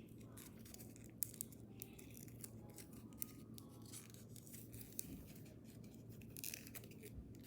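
Faint crinkling and crisp clicks of a sheet of paper being handled and creased while folding an origami jet, over a low steady hum.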